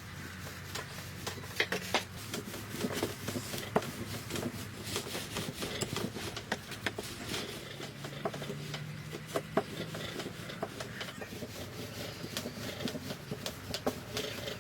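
Irregular clicks and knocks with rubbing and scraping on wood, the sounds of hands-on food preparation.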